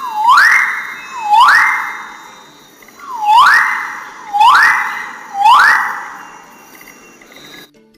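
A bird's loud whistled call, given five times. Each note dips briefly, then sweeps sharply up and holds before fading. There is a longer pause after the second note.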